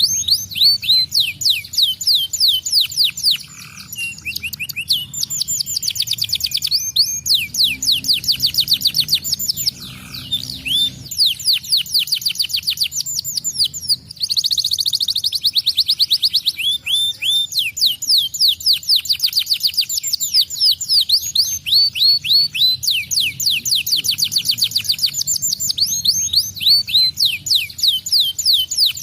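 Domestic canary singing vigorously: long, rapid, high-pitched trills of quickly repeated downward-sliding notes, run together in phrases with only short breaks.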